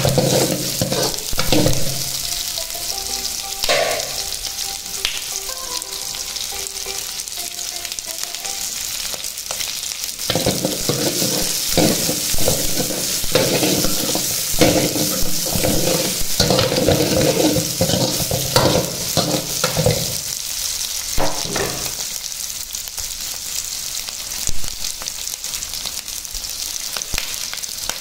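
Diced onions and green capsicum sizzling in hot oil in a pan, with a steady hiss, while a steel spoon stirs and scrapes them in repeated strokes.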